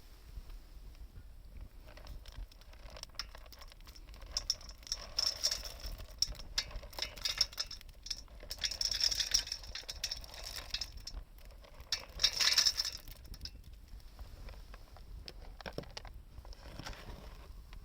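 Wood fire crackling and popping, with thicker flurries of crackle about midway and again a little later.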